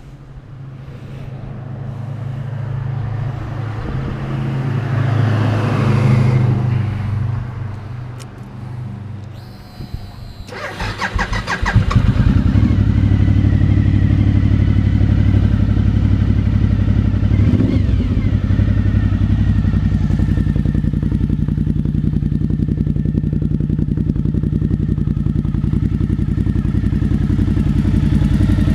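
Suzuki V-Strom 1000's V-twin, fitted with a White Brothers exhaust, is cranked on the starter about ten seconds in, catches, and then idles steadily and loudly through the aftermarket pipes. Before that, an engine sound swells and fades.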